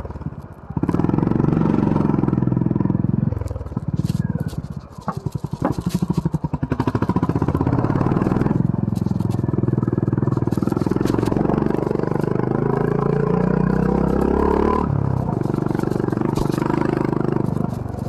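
2022 Honda CB350 RS's single-cylinder engine running under throttle, dropping off about three seconds in to a slow, separate thumping beat, then pulling and climbing again. Small clicks and scrapes from the trail surface are heard over the engine.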